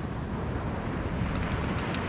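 Surf washing on the beach, with wind buffeting the microphone in a steady low rumble.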